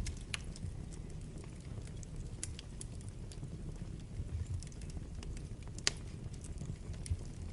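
Wood fire burning in a fireplace: a steady low rumble of flames with irregular sharp crackles and pops, the loudest pop just before six seconds in.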